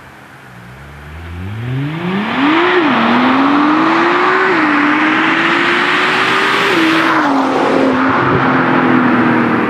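Nissan R35 GT-R's twin-turbo V6 through an Akrapovic titanium exhaust, accelerating hard at full throttle. The engine note climbs steadily, drops sharply at three quick upshifts, about three, four and a half and seven seconds in, then holds a fairly steady note near the end.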